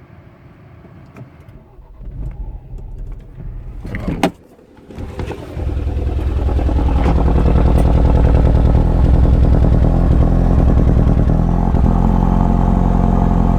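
Car engine cold-started: it turns over and fires about five seconds in, then settles into a loud, steady idle. The owner suspects a small crack is letting coolant into the engine, where it burns off as smoke and steam on start-up.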